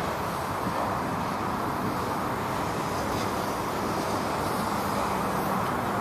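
Steady vehicle noise with no distinct events, an even wash of engine or road sound.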